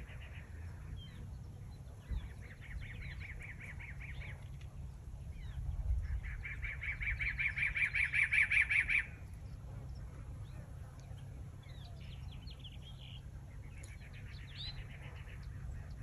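A songbird singing in rapid trills: several runs of quickly repeated notes on one steady pitch, the longest and loudest lasting about three seconds from around six seconds in. A low steady rumble runs underneath.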